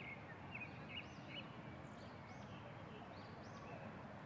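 Faint birds chirping in the background over a low steady hiss. Short chirps and small arching calls come again and again.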